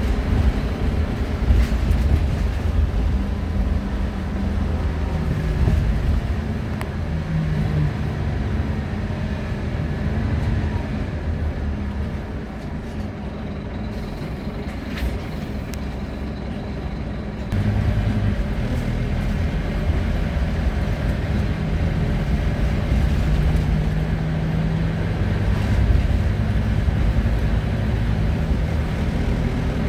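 Diesel engine of a Wright Solar Rural single-deck bus on a Scania chassis, heard from inside while the bus is moving, with road noise. The engine note steps up and down in pitch as the bus changes gear. It eases off for a few seconds around the middle, then picks up sharply about 17 seconds in as the bus accelerates again.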